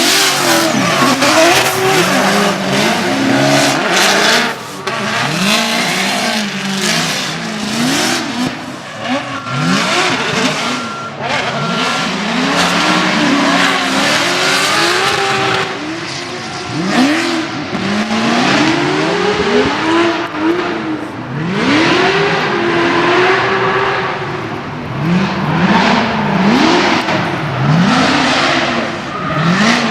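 Drift cars sliding on track, their engines revving up and down over and over with the pitch rising and falling every second or two, over a constant rush of tire noise.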